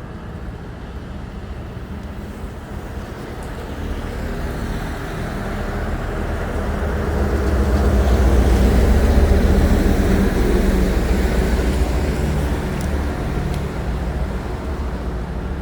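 Excavator's diesel engine running with a steady low drone. It grows louder about halfway through, as if working under load, then eases off toward the end.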